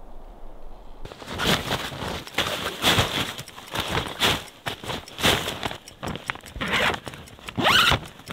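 Boot footsteps on a snow-dusted canvas ground tarp over packed snow, about two a second, starting about a second in. Near the end comes a louder rustle as a heavy duffel bag is set down.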